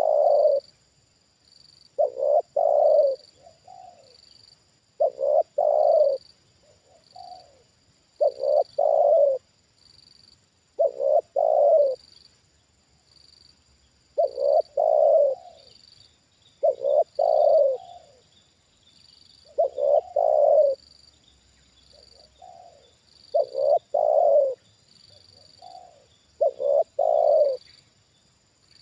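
Spotted dove cooing its repeated song: each phrase is two short notes followed by a longer coo, coming about every three seconds.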